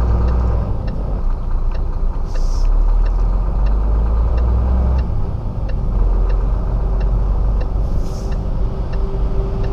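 Diesel engine of a Renault 26-tonne rigid lorry running at low speed, heard from inside the cab, with a light regular ticking about twice a second. Two short hisses come about two seconds in and again near the end.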